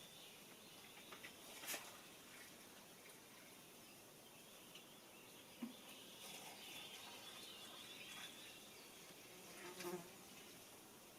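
Faint insect sounds: buzzing and a thin, high chirring that swells in the second half. Two soft clicks, about two seconds in and near the end.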